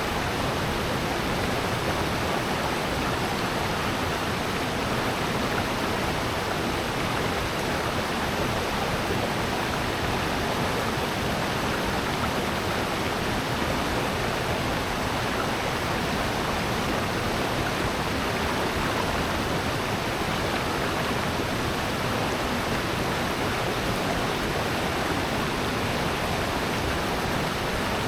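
Steady, unbroken rush of water from a valley stream and waterfall flowing over rocks, with no single events standing out.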